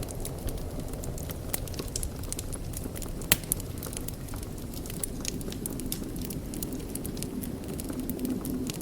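Wood fire in a fireplace crackling, with many small scattered pops over a low steady rush of the flames and one sharp, louder pop about three seconds in.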